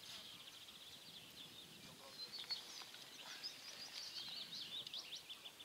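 Small birds singing, a busy run of short high chirps and quick whistled notes thickest through the middle. A faint click about two and a half seconds in.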